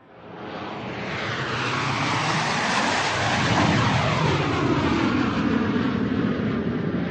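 Airplane flying over: its engine rush fades in from nothing, swells to its loudest about halfway through and holds there, with a sweeping, phasing whoosh as it passes overhead.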